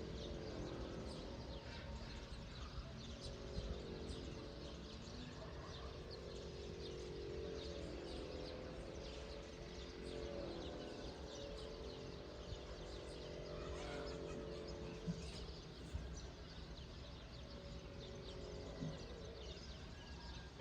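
Many small birds chirping and twittering, short quick calls overlapping throughout, over a steady low background rumble.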